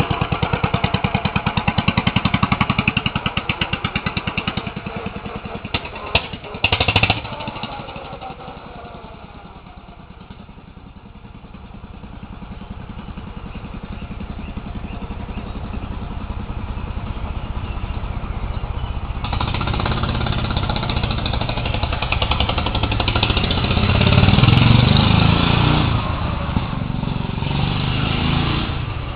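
Old tractor's engine running with a fast, even firing beat, fading away to its quietest about ten seconds in, then growing louder again as it comes back, loudest near the end. A few short knocks about six to seven seconds in.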